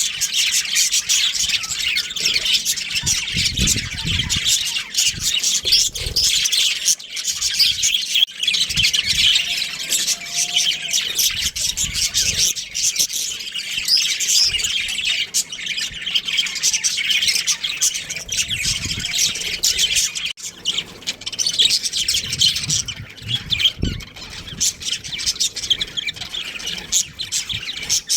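Budgerigars chattering, with many quick chirps and squawks overlapping in a continuous stream.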